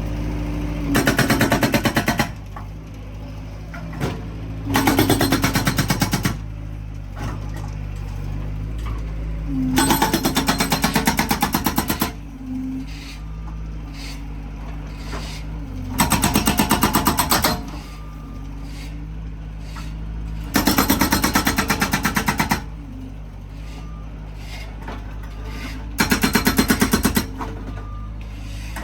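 Felix FX-68 hydraulic breaker on a Bobcat S130 skid steer hammering in six bursts of rapid blows, each lasting one and a half to two seconds. Between the bursts the skid steer's engine runs steadily.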